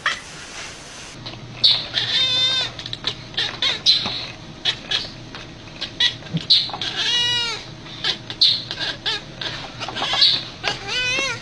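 An animal giving three quavering, bleat-like cries a few seconds apart, with short knocks and clicks between them.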